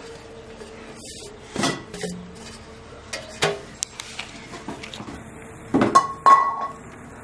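Metal kitchen vessels and utensils knocking and clinking several times, the loudest pair near the end ringing briefly.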